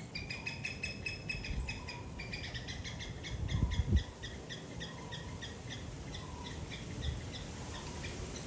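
A bird calling: one long whistled note for about two seconds, then a steady run of short repeated notes, about three a second. A low thump sounds about four seconds in.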